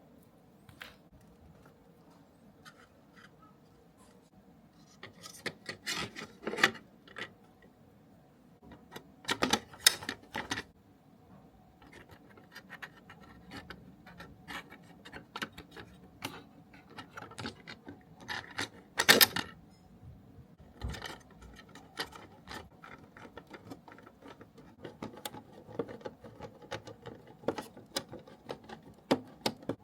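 Model-kit parts and small tools being handled during assembly: scattered clicks, taps and rubbing. Louder clusters come about six, ten and nineteen seconds in, and a low knock comes about twenty-one seconds in.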